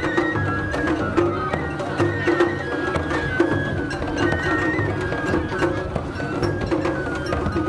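Japanese festival hayashi music: a high flute playing a stepping melody over steady drumming, with sharp percussive strikes throughout.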